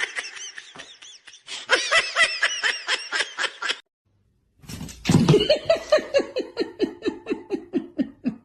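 People laughing in two bouts split by a brief silence: first a high-pitched, rapid run of laughter, then, about five seconds in, a run of rhythmic "ha-ha" pulses, about five a second, that slide steadily down in pitch.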